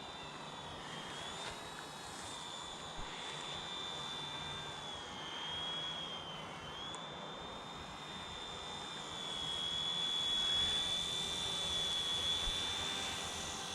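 Small electric RC helicopter in flight: a steady high whine from the motor and rotor over a rushing hiss. The pitch dips and recovers a couple of times as the throttle changes, and the sound grows a little louder later on.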